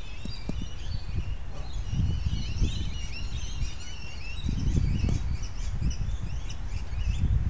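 Several birds chirping and twittering in quick, overlapping calls, over a low, uneven rumble.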